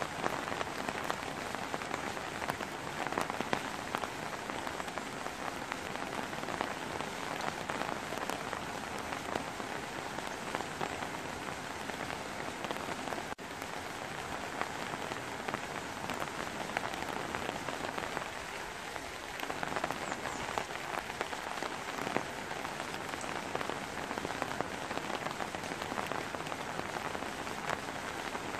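Steady rain falling, a continuous even hiss with many individual drops heard as small sharp ticks.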